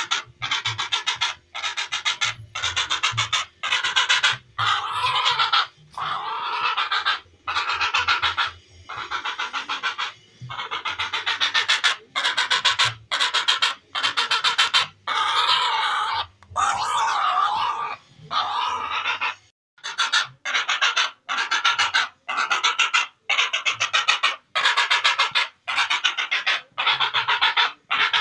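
Heron calls: harsh, rattling calls in bursts of about half a second to a second, one after another with short gaps. Each call is a fast run of clicks.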